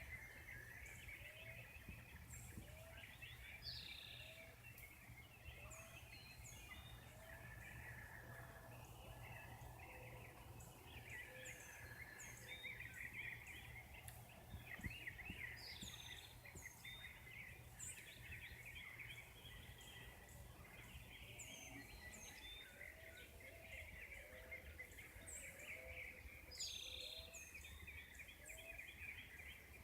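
Faint dawn chorus of several birds: many overlapping chirps and trills, a low short note repeated about once a second, and thin high calls that drop in pitch. A steady low hum lies underneath and drops away about two-thirds of the way through.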